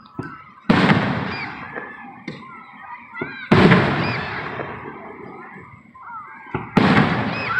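Fireworks shells bursting overhead: three loud booms about three seconds apart, each trailing off in an echoing rumble.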